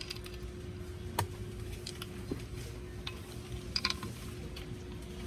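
A few light metallic clicks and clinks of hand tools and small metal parts being handled while a starter solenoid is taken apart, over a faint steady hum.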